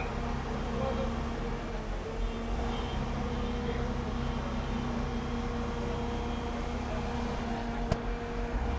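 Steady machine hum with a low rumble, such as a running engine, and one sharp click about eight seconds in.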